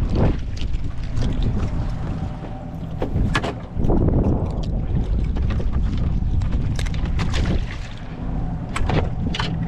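Wind buffeting the microphone in a small open boat, a steady low rumble, with water slapping the hull and a few sharp knocks scattered through.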